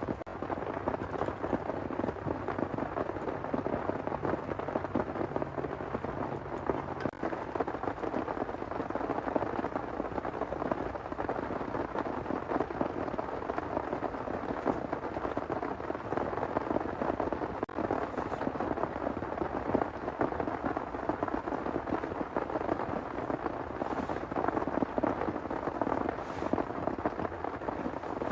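Heavy rain pouring steadily, a dense patter of drops throughout.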